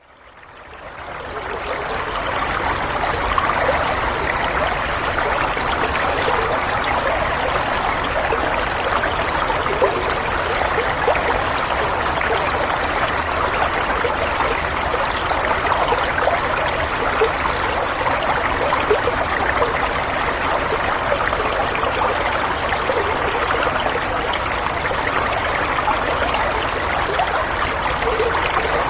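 Running water flowing steadily, a continuous even rush used as soothing white noise. It fades in over the first couple of seconds, then holds level.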